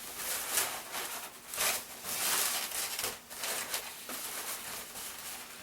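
Latex 260 modelling balloons rubbing and squeaking against each other as they are twisted and wrapped together, in irregular scratchy bursts.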